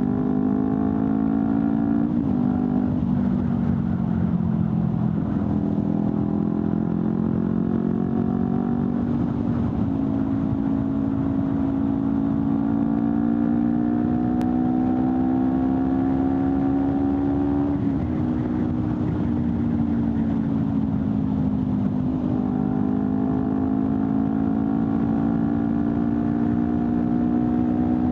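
Honda CBR250RR parallel-twin engine with an Akrapovic slip-on exhaust, running on the move. Its pitch climbs slowly for several seconds, then falls back abruptly, a few times over.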